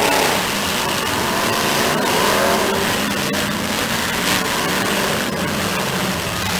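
Demolition derby cars' engines revving against a steady wash of noise, with one engine's pitch rising and falling about two seconds in.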